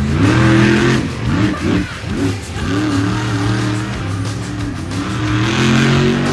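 Monster truck engine revving in several quick blips, then running on at a steadier pitch.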